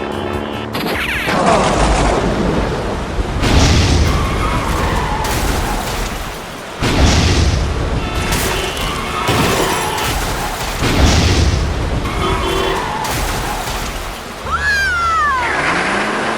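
A run of loud crashes, about five in a row a couple of seconds apart, each fading out, with music faintly underneath. Near the end a whistle-like tone glides down.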